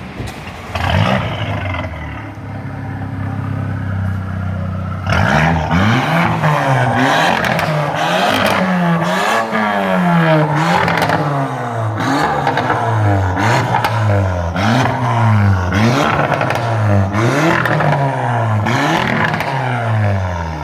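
Porsche Macan's 2.0-litre turbocharged four-cylinder running through a custom-built exhaust: a quick rev about a second in, idling, then from about five seconds revved over and over, about ten rises and falls in pitch, showing off the modified exhaust's sound.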